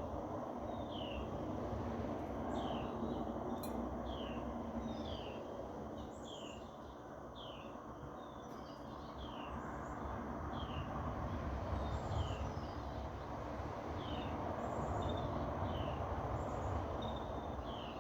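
Songbirds chirping outdoors, a steady series of short, downward-sliding chirps about one or two a second, over the low rumble of highway traffic that swells and fades as vehicles pass.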